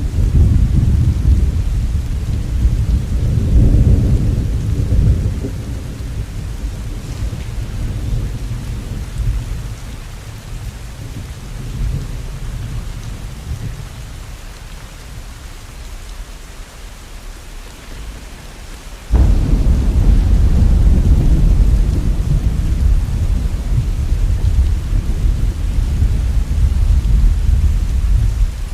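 Thunder over steady rain: a long low rumble that fades away over about ten seconds, then a sudden loud thunderclap about nineteen seconds in that rolls on afterwards.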